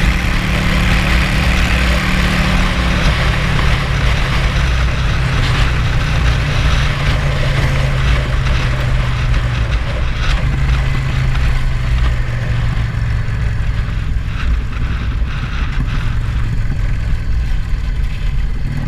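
Car engine running steadily, its low hum shifting pitch slightly a few times; the engine's vacuum leak has been repaired.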